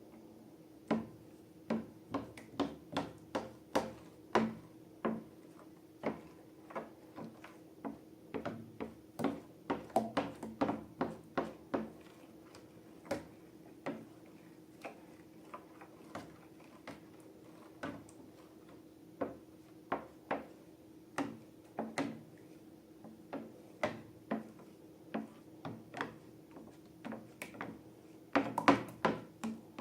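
Irregular short taps and clicks from hands handling slime-making materials and containers, several a second at the busiest stretches and a quick cluster near the end, over a faint steady hum.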